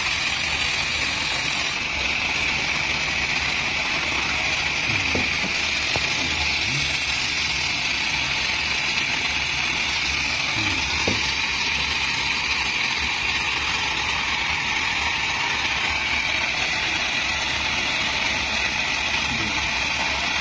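Chainsaw running steadily at an even pitch.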